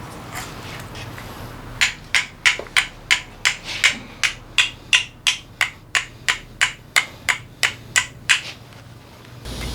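A hammer tapping on metal engine parts: about twenty quick, sharp strikes at an even pace of roughly three a second, stopping shortly before the end.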